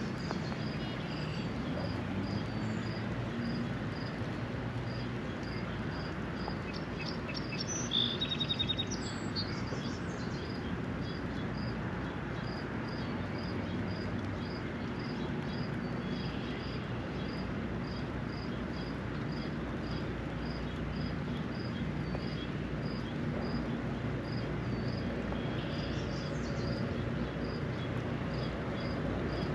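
Steady hiss of a spring rain shower on a lake shore, with a high chirp repeating evenly throughout and a low hum underneath. About eight seconds in, a bird gives a quick run of loud calls, the loudest sound here, and a fainter call comes near the end.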